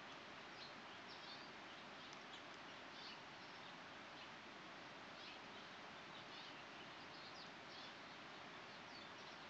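Faint, short, high chirps of small birds, scattered irregularly, over a steady outdoor background hiss.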